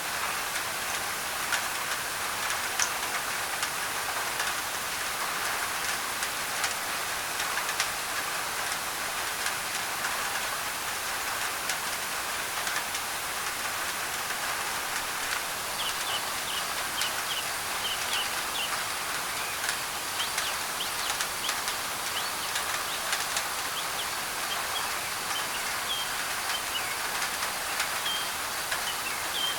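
Steady rain pattering on a thin tin roof, with scattered sharp drop ticks, under a layer of white noise. From about halfway through, birds chirp in short, high calls.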